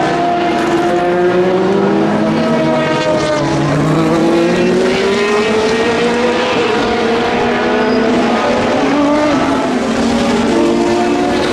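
Several endurance race car engines running at once, their pitches rising and falling as the cars accelerate and slow through the circuit.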